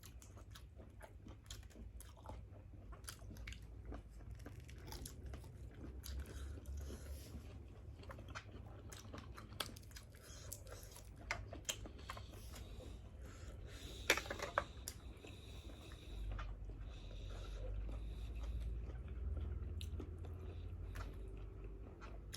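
A person chewing and biting food, with scattered small crunches and clicks and one sharper click about 14 seconds in.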